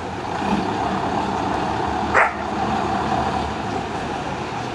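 Vehicle engines running steadily, with one short sharp sound about two seconds in.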